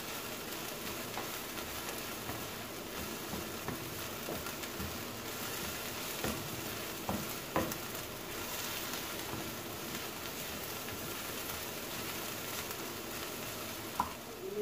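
Steady sizzle of chopped shallots, garlic and ginger frying in hot oil in a frying pan as they are stirred with a spatula, with a few light knocks of the spatula on the pan around the middle and one near the end.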